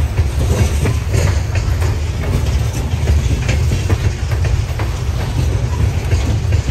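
Freight train of covered hopper cars rolling past close by: a loud, steady low rumble with irregular clicks and clanks from the wheels and trucks going over the rail.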